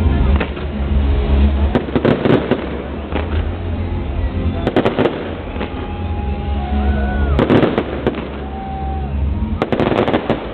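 Fireworks display: aerial shells bursting in four clusters of bangs and crackles, roughly every two and a half seconds, over a steady low rumble.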